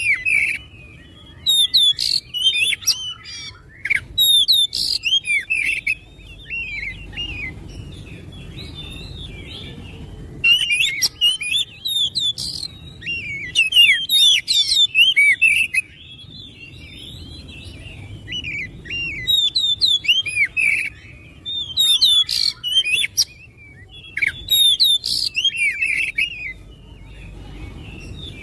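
Oriental magpie-robin (kacer) song: bursts of rapid, varied whistles and chirps mixed with sharp clicking notes, each phrase a few seconds long and separated by short pauses, over a faint low rumble.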